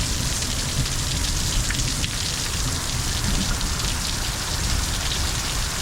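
Heavy thunderstorm downpour: a steady, dense hiss of rain pelting the ground and surfaces, with fine patter throughout.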